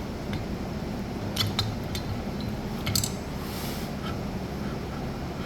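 Several light metallic clicks and clinks of disassembled two-stroke engine parts being handled, over a steady low shop hum.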